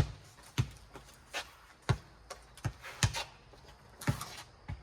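Rubber four square ball bouncing on concrete and being hit back and forth in a rally: a string of sharp thumps, roughly one every half-second or so.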